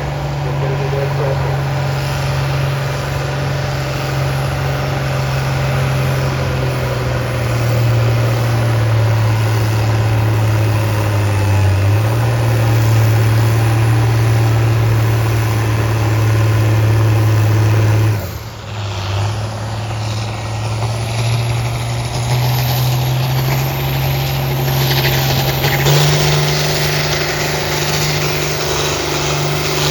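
A tractor engine working hard under load on a pulling sled, its pitch slowly sagging as it lugs. About two-thirds of the way through, the sound drops off suddenly, then comes back and picks up speed again near the end.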